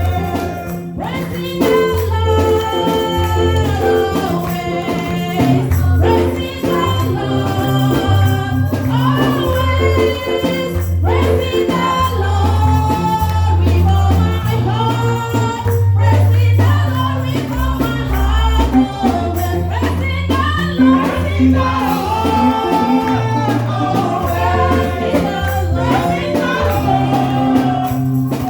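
Live gospel praise music: voices singing over a heavy bass line, with tambourine and shaker percussion keeping a steady beat.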